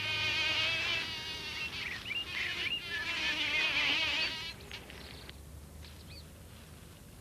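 A bee buzzing in flight, its hum wavering up and down in pitch, then dying away about four seconds in.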